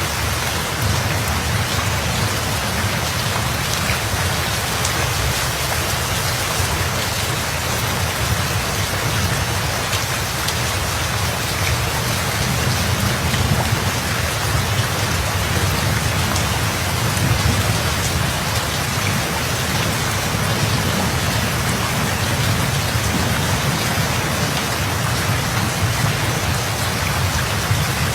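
Steady heavy rain with a low, rolling thunder rumble underneath that swells and eases.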